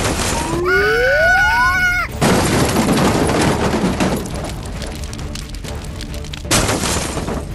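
Cartoon-style sound effects: a rising slide-whistle-like glide, then a loud crashing boom that fades out over about two seconds, and another short crash near the end.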